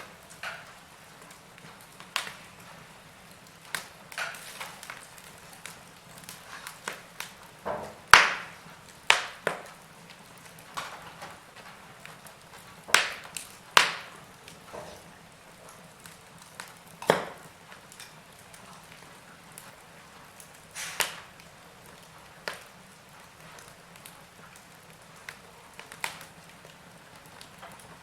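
Wood fire crackling: irregular sharp cracks and pops from burning logs, scattered a second or two apart, over a low steady hiss of the flames.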